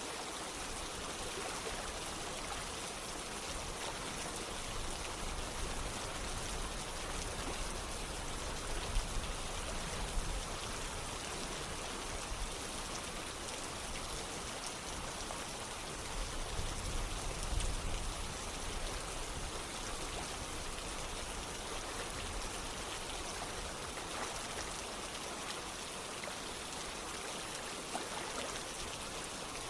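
Steady rain together with running water, heard as a continuous even hiss, with a few brief deeper, louder swells about a third of the way in and again past the middle.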